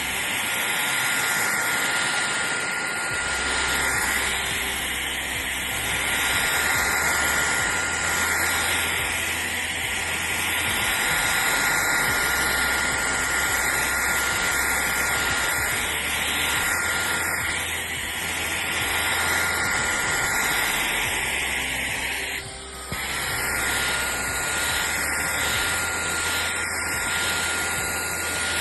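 Shark Detect Clean & Empty cordless stick vacuum running steadily, a hiss of rushing air over a constant motor whine. The sound dips briefly about 23 seconds in, and the whine comes back slightly higher.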